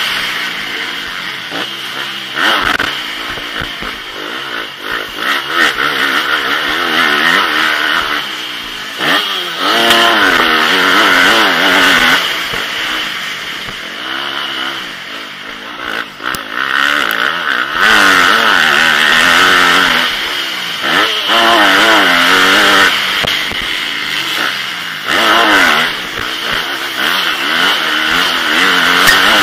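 Motocross bike engine at racing speed, winding up in pitch and dropping back again and again as the rider works the throttle and shifts, with brief dips where the throttle is shut off, heard from a camera on the rider's helmet.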